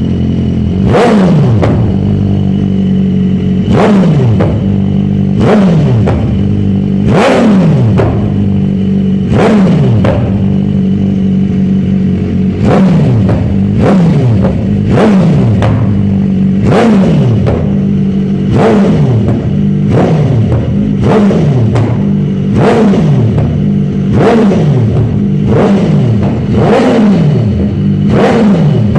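BMW S1000RR inline-four sport bike with an Arrow aftermarket exhaust, blipped over and over from idle. Each blip snaps the revs up and they fall straight back to idle, every second or two.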